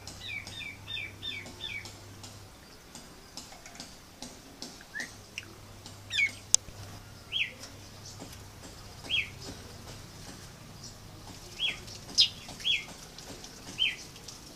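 Small birds chirping: a quick run of short chirps at the start, then single short, downward-sliding calls every second or two.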